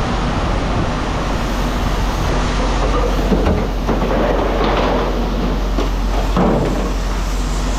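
A heavy engine running steadily with a low hum, with loose metal clanking and rattling a few times partway through.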